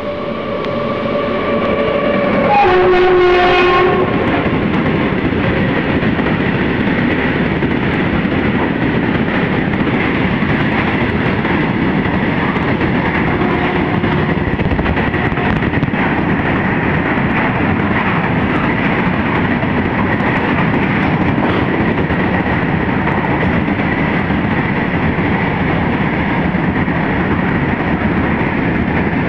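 Freight train locomotive sounding its horn as it approaches and passes at speed, the horn loudest and dropping in pitch about three seconds in before it stops. A long string of tank wagons then rolls past with a steady rumble and wheel clatter.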